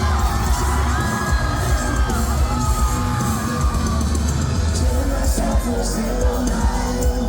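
Live rock band playing an instrumental passage of a song, with heavy drums and bass under held guitar lines and crashing cymbals, and the crowd yelling along.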